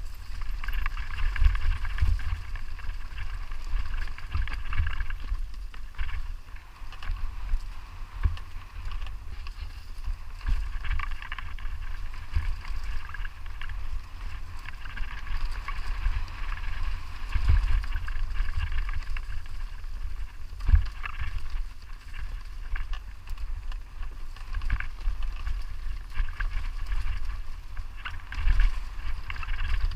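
Wind buffeting the microphone in an uneven low rumble, over a steady higher whirring hum.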